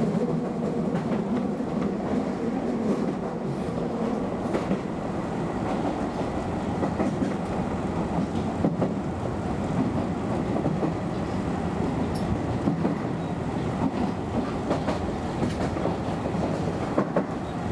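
Keio Inokashira Line electric train running on the track: a steady rumble of wheels on rail, with a few clicks over rail joints and a hum that fades after about four seconds.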